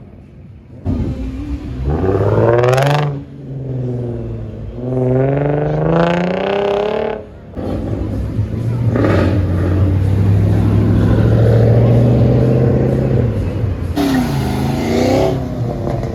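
Car engines revving repeatedly: the pitch climbs and drops about two seconds in and again about six seconds in, holds a steady drone through the middle, and gives another short rev near the end.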